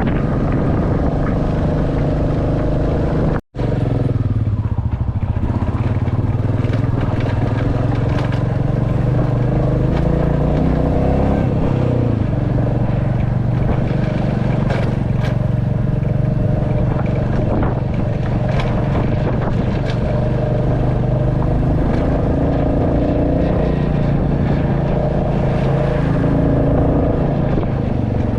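Royal Enfield Classic 350's single-cylinder engine running under way, its exhaust note rising and falling a little with the throttle. The sound cuts out for a moment about three and a half seconds in.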